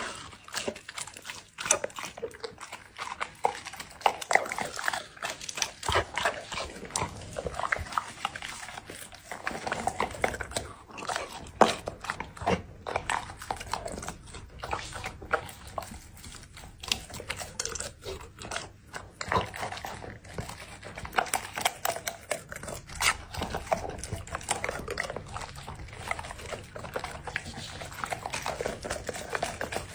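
A Labrador chewing and crunching its food, with a steady stream of irregular crunches and clicks.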